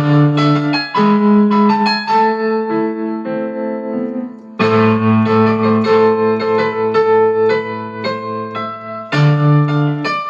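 Electric piano playing an original piece: melody and chords over held bass notes, thinning out and dipping about four seconds in before the full texture comes back.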